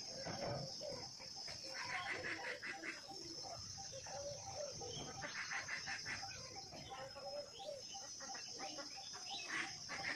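Birds calling in three short bursts of rapid notes over a steady high hum.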